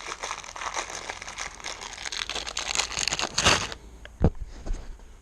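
Dense crinkling rustle with many small clicks, like plastic and small metal parts being handled, stopping about three and a half seconds in, followed by a single sharp knock.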